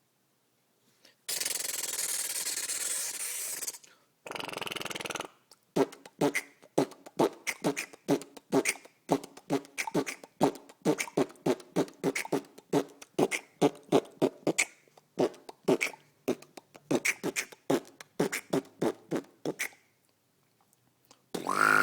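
Human beatboxing: a long hissing mouth noise and a shorter lower one, then a fast rhythmic beat of sharp clicks and short pitched vocal pulses lasting about fourteen seconds.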